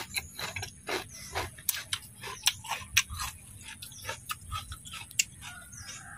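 Close-up chewing of crispy fried duck: irregular crunches and wet mouth smacks, a few a second.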